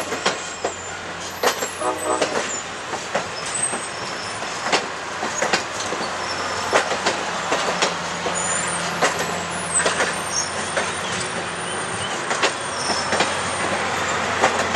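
Railcars of a slow-moving train rolling past with a steady low rumble, many irregular clicks and clanks from the wheels and couplers, and a few faint high wheel squeals.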